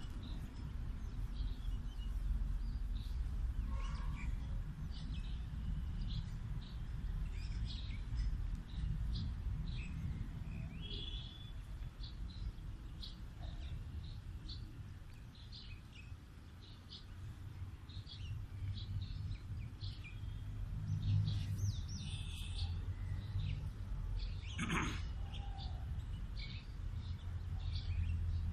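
Small birds chirping on and off over a steady low background rumble, with one brief sharp sound a few seconds before the end.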